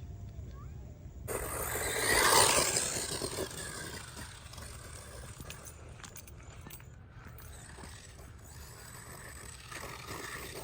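Brushless 1/16-scale RC truck (MEW4 M161) driving past on rough ground, a noisy rush of tyres and drivetrain that comes up suddenly about a second in, is loudest about two seconds in, then fades.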